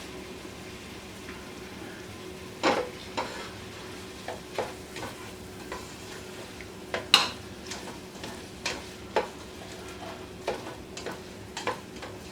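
Diced onions sizzling in melted butter in a pot, stirred with a spoon that scrapes and knocks against the pot about a dozen times at uneven intervals, loudest about seven seconds in.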